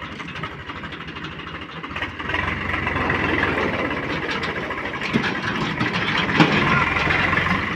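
Swaraj tractor's diesel engine running with a steady pulse, growing louder and fuller about two seconds in, with a couple of sharp knocks later on.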